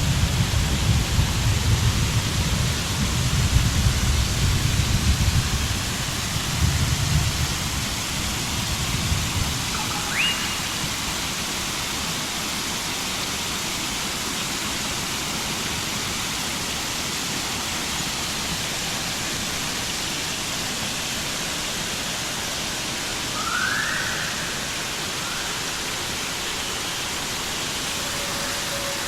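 Steady hiss of rushing water, with a low rumble through the first nine seconds or so. Two short rising chirps cut through it, about ten seconds in and again near the end.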